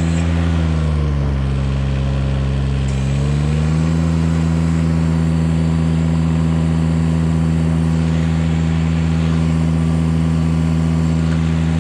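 Engine of an outrigger-equipped tree-work machine running steadily. Its speed drops about a second in and comes back up about three and a half seconds in, then holds.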